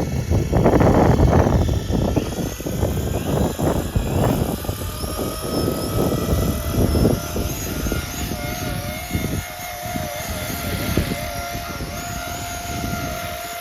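Walkera DQ59 scale RC helicopter, electric with brushless motors, in flight. Heavy buffeting on the microphone dominates the first few seconds, then a steady electric whine from the motors and rotors that wavers in pitch as the pilot works the controls.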